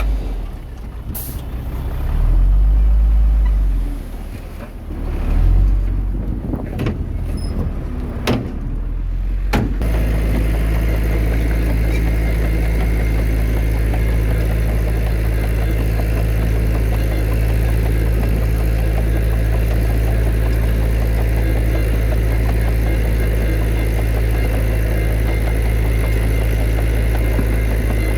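Heavy diesel engine of earthmoving machinery working. For the first ten seconds or so the engine note rises and falls in two loud swells, with a few sharp knocks. It then changes abruptly to a steady, even engine drone.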